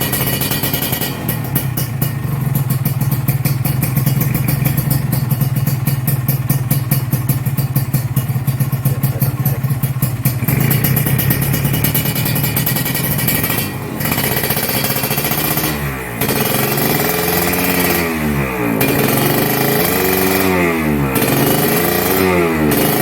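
Kawasaki Ninja RR's 150 cc single-cylinder two-stroke engine running at a steady idle, then revved up and down several times in quick repeated swells over the second half.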